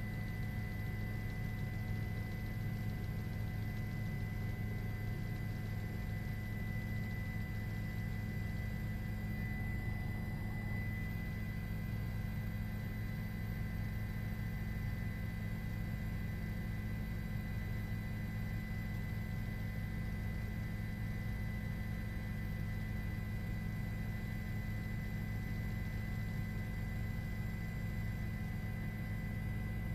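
Steady low hum with faint steady higher tones, as of a helicopter's engine and rotor noise on an open cabin microphone.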